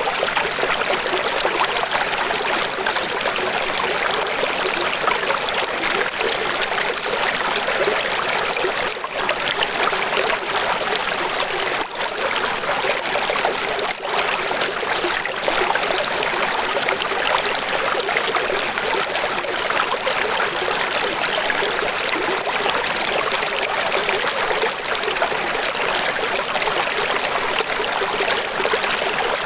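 Running water rushing steadily, an even hiss with little low rumble.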